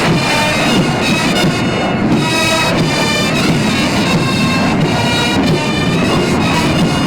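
Military band playing a ceremonial piece, led by bagpipes holding steady reedy notes that change every half second or so.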